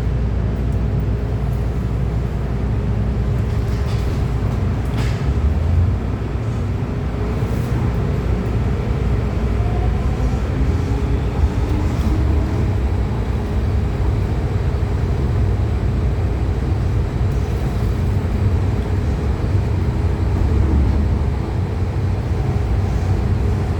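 MTR M-Train electric multiple unit running along the line: a steady, loud rumble of wheels and running gear with a faint motor whine above it.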